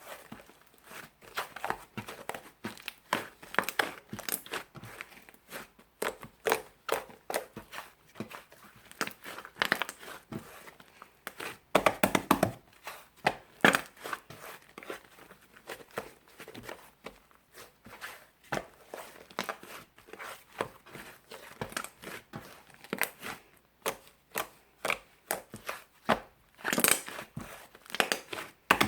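Irregular crinkling and crackling from something being handled by hand: dense runs of small clicks, with louder bursts about twelve seconds in and near the end.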